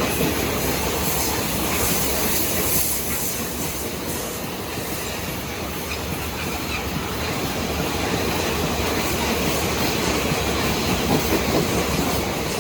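Loaded iron-ore freight train rolling steadily past, its steel wheels running on the rails with a continuous rumble and clatter.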